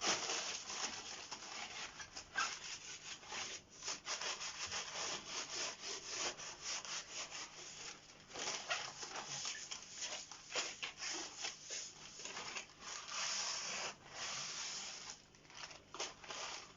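Crumpled newspaper being rubbed over a fireplace's glass door, a scratchy scrubbing in quick irregular strokes as soot is wiped off the glass.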